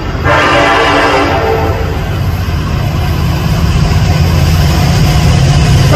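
Norfolk Southern freight train's air horn sounding, ending about a second and a half in, then the diesel locomotives' engines rumbling, growing louder as they approach.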